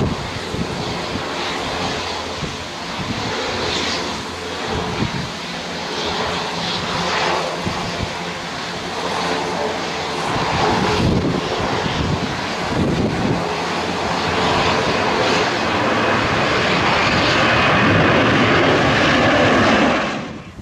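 Airliner engines on approach to land, a steady rush that grows louder through the second half and then cuts off abruptly.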